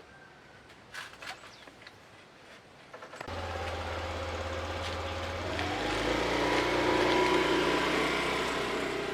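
A vehicle engine comes in suddenly about three seconds in and runs steadily, then rises in pitch and grows louder as it speeds up.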